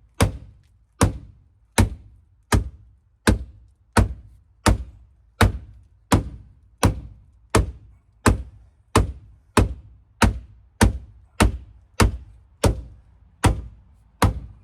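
Steady, evenly paced blows, about twenty of them at roughly one every 0.7 seconds, each landing with a dull thunk and a short ring. It is bent sheet metal at the door of a Dodge Dakota being beaten back into shape.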